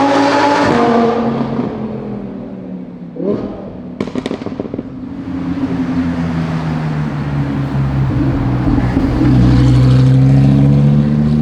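Lamborghini Huracán LP610-4's naturally aspirated V10 through an IPE stainless-steel catback exhaust, driving. The revs fall away at first, a short blip and a few sharp pops come about three to four seconds in, then a long steady pull grows louder before easing near the end.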